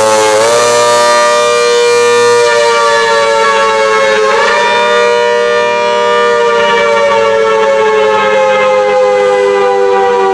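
Hurricane outdoor warning siren sounding a loud, steady two-note chord whose pitch slowly sags, with brief wobbles near the start and about four seconds in.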